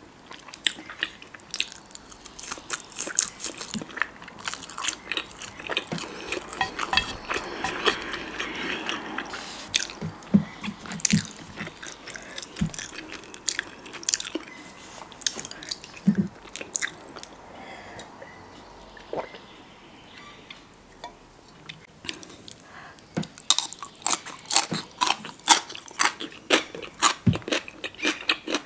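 Close-miked mouth sounds of eating: chewing with many sharp, wet clicks and crunches, growing quicker and denser near the end.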